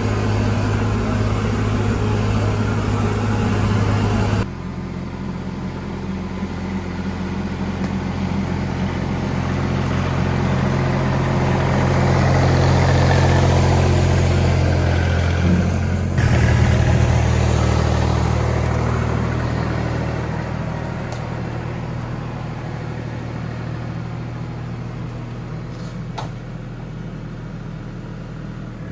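Kubota L3560 tractor's diesel engine running steadily as the tractor drives. Its pitch and level change abruptly about four seconds in and again about sixteen seconds in.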